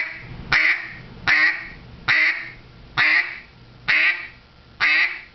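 Hand-blown duck call sounding the basic single quack, seven separate quacks at a steady pace of about one a second, each cut off cleanly with the tongue.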